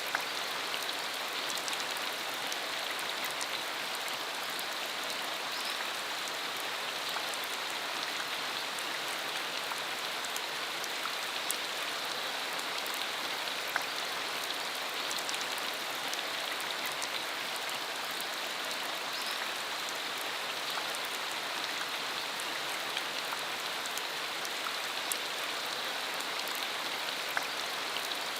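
Steady rain falling, an even hiss with scattered distinct drop taps.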